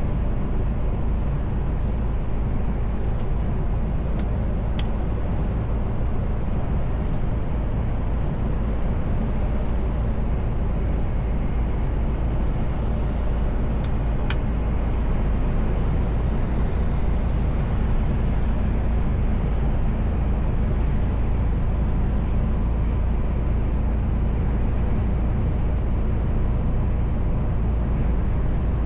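Mercedes-Benz Actros truck driving at a steady speed: a constant low engine drone and road noise, with a few faint clicks about four and fourteen seconds in.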